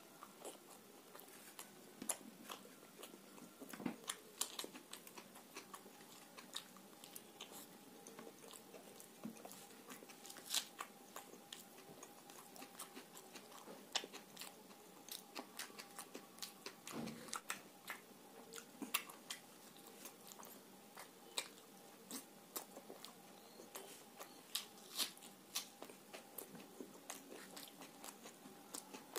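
Close-up chewing and mouth sounds of a person eating fried puri (luchi) with curry by hand: an irregular stream of short, sharp clicks and smacks, over a faint steady hum.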